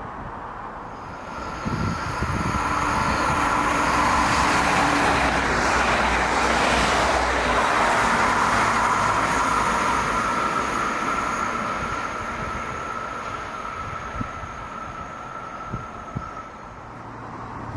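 SJ X40 double-deck electric multiple unit passing by. Its running noise swells over about two seconds, stays loudest for several seconds and then slowly fades, with a steady high whine throughout.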